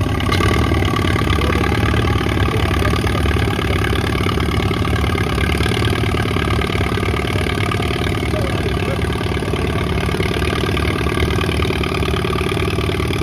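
Antique farm tractor engine running steadily under load while pulling the weight sled down the track, making a full pull.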